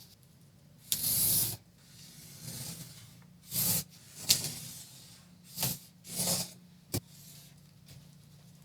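Sheet of clear patterning plastic being handled and rubbed on the bench: several short, separate swishes, the longest and loudest about a second in, with a sharp click near the end.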